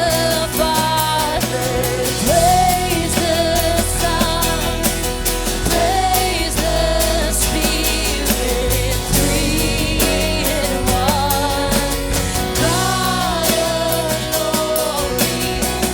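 Live worship band music with a regular drum beat, a sustained bass and a melody line over it.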